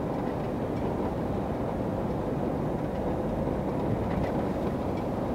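Truck driving at a steady speed: a steady low rumble of the diesel engine and tyres on the road.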